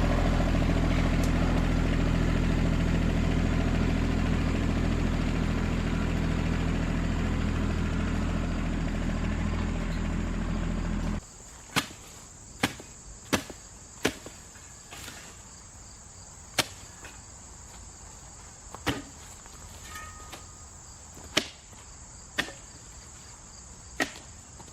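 Small tractor engine idling steadily, cutting off abruptly about eleven seconds in. After that, sharp knocks at irregular intervals, with a steady chirr of insects underneath.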